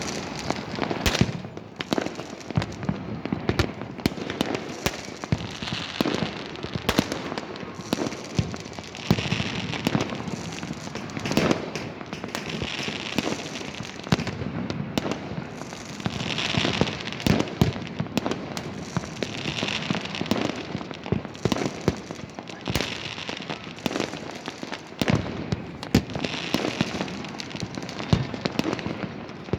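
Fireworks going off continuously: many sharp bangs and pops at irregular intervals, with repeated stretches of crackling.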